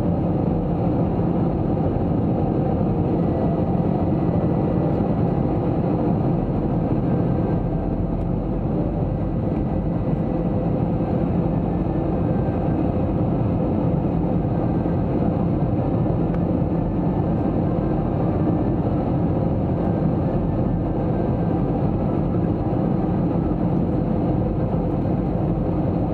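Steady cabin noise inside an Airbus A321-200 airliner: a constant rumble of engines and airflow with a faint hum.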